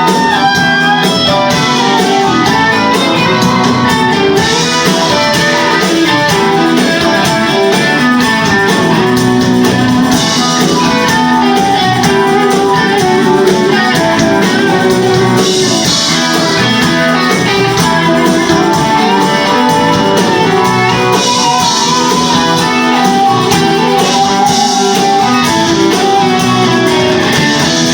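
Live band playing an instrumental passage with guitar to the fore, with no singing.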